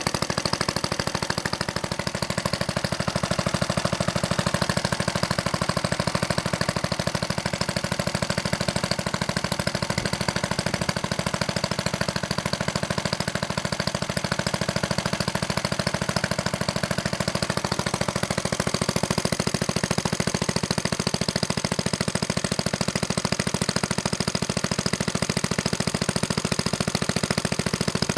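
Clinton small stationary engine running steadily with a fast, even firing beat.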